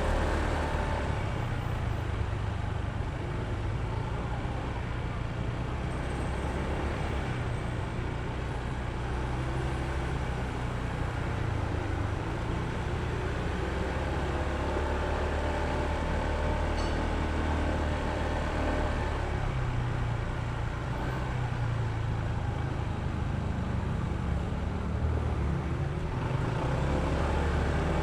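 Honda ADV160 scooter's single-cylinder engine running while riding, with steady road and traffic noise around it.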